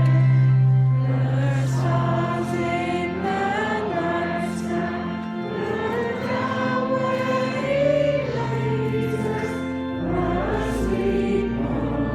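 Church choir and congregation singing a hymn together, over long held low accompanying notes.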